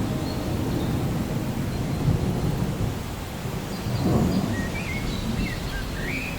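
Rolling thunder, a low continuous rumble that swells about four seconds in, over steady rain.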